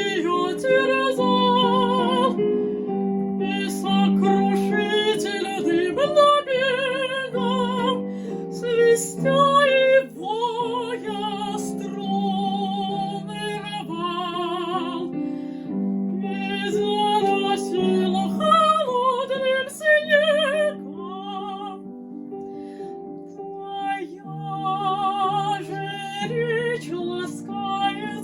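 A woman singing a classical art song with wide vibrato, in phrases with short breaths between them, over piano accompaniment.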